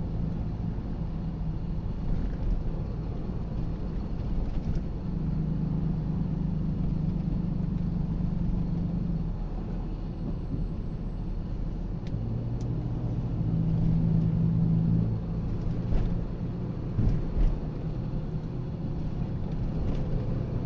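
Car driving, heard from inside the cabin: steady road rumble and engine hum. The engine note swells for a few seconds about a quarter of the way in and again past the middle, with a few light knocks.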